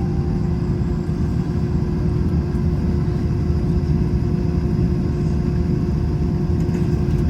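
Airbus A321 cabin noise while taxiing after landing: a steady low rumble from the idling jet engines and the airframe rolling on the taxiway, with a steady hum over it.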